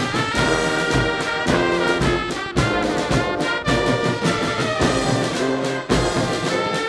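Military brass band playing a march: trombones and trumpets holding chords over a bass drum beating about once a second.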